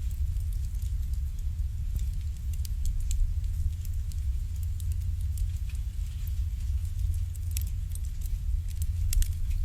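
Wood fire burning in an irori hearth: irregular sharp crackles and pops, a few bunched together near the end, over a steady low rumble.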